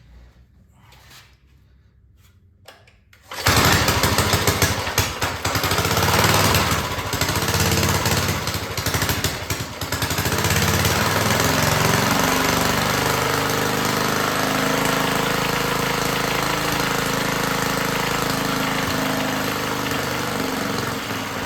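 Rebuilt Clinton small engine starting up about three and a half seconds in, then running loud and uneven with brief dips, settling into a steadier run after about ten seconds.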